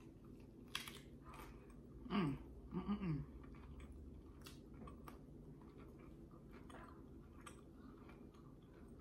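Close-miked chewing of a mouthful of taco, with small wet clicks and soft crunches throughout. About two seconds in there is a brief hum sliding down in pitch, then a second short hum that rises and falls, made through the full mouth.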